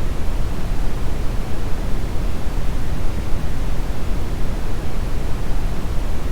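Steady synthetic brown noise: an even, deep rumbling hiss, strongest in the bass and fading toward the treble, with no changes or events.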